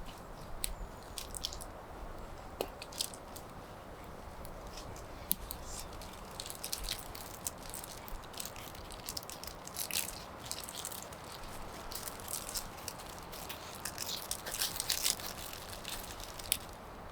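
Campfire crackling: irregular sharp pops and snaps over a steady low hiss, busiest about ten seconds in and again near the end.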